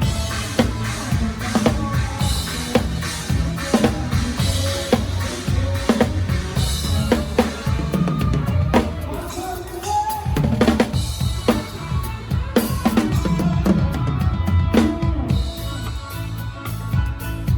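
Drum kit played live with a band: kick drum, snare and rimshot hits over bass and other instruments, with the drums close up and loud in the mix.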